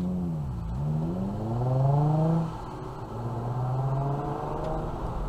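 A vehicle engine pulling away from a standstill. Its pitch rises, dips, and climbs again to its loudest about two seconds in, then drops back at a gear change and settles into a steady run.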